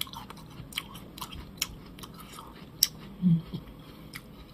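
Close-up chewing of crisp Korean Naju pear: a few irregular, sharp crunches as the juicy flesh is bitten and chewed. One short low hum from the eater comes about three seconds in.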